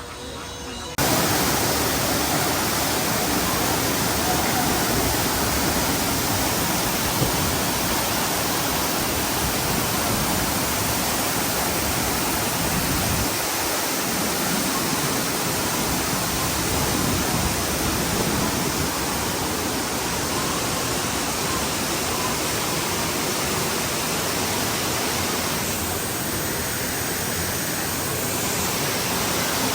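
Loud, steady rush of falling water, cutting in suddenly about a second in.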